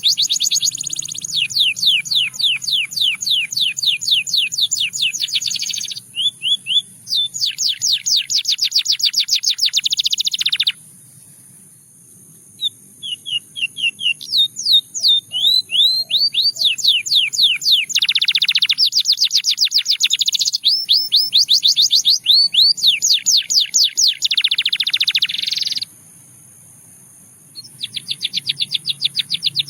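Russian singing canary singing long trills of rapidly repeated notes, each run lasting several seconds, broken by two short pauses of about two seconds.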